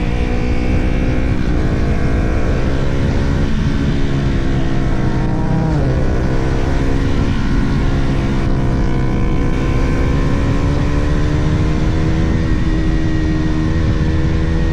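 Sport motorcycle engine pulling at speed, its revs climbing gradually, with a brief sharp dip in revs about six seconds in before climbing again and then holding steady, under heavy wind rush.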